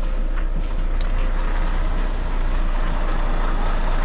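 Heavy goods vehicle's diesel engine running steadily at low speed during a slow manoeuvre, heard from inside the cab, with one sharp click about a second in.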